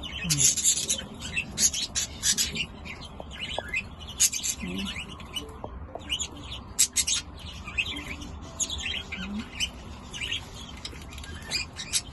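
Budgerigars chirping and chattering, many short high calls in quick succession from several birds.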